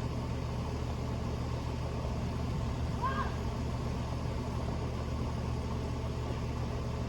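Steady low mechanical hum with an even drone, and one brief faint voice-like call about three seconds in.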